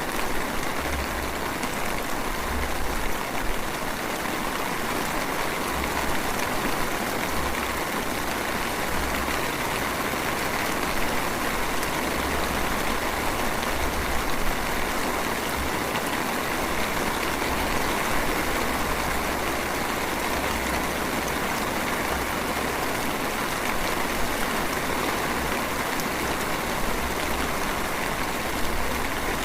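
Light drizzle falling in a steady, even patter, with a low rumble that comes and goes underneath.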